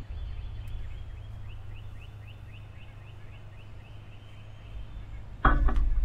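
A bird gives a quick run of short high notes, about seven a second, for just over a second. About five and a half seconds in comes a sudden loud knock and rustle as a tufted titmouse lands on the feeder arm right by the microphone, over a steady low hum.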